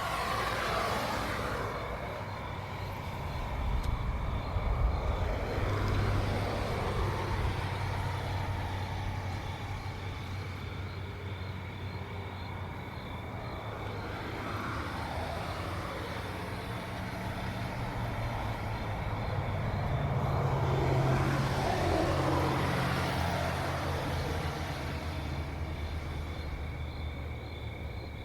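Cars passing by one after another on a road, each rising and fading away, about four passes. A steady insect chirping sits behind them.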